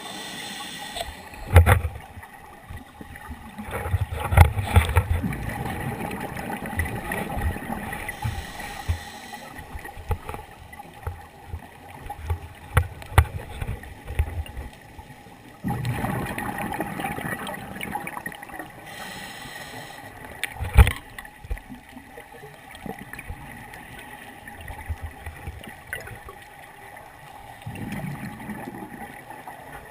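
Scuba diver breathing through a regulator underwater: a short hissing inhale, then a longer bubbling exhale, repeating about every ten seconds. There are a few sharp knocks, loudest about two seconds in and again around twenty-one seconds.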